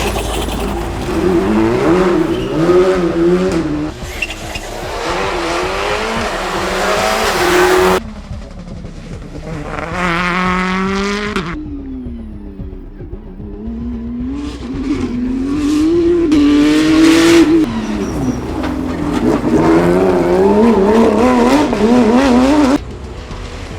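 Rally cars driven flat out, their engines revving up and dropping back again and again through gearshifts. Several passes follow one another with abrupt cuts.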